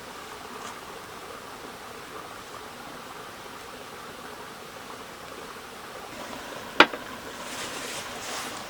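Steady hiss of wind and light drizzle outdoors. There is one sharp click about seven seconds in, and the hiss swells briefly near the end.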